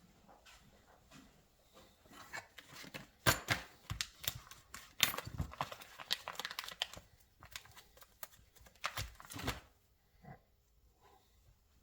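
Parts handled while fitting new guide bushings to motorcycle front forks: scattered clicks and knocks with some rustling, busiest in the first half and the loudest knocks about three, five and nine seconds in.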